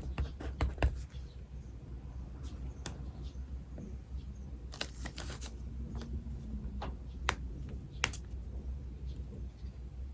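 Pen writing on paper: scattered light scratches and taps, a short cluster about halfway through, over a steady low hum.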